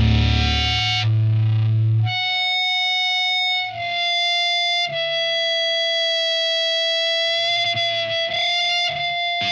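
Distorted electric guitar music: the band drops out about two seconds in, leaving a single high guitar note held and sustained, with small shifts in pitch.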